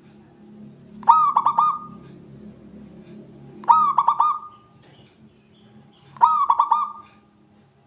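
A zebra dove (local perkutut) cooing: three short phrases, each a quick run of about four notes, roughly two and a half seconds apart.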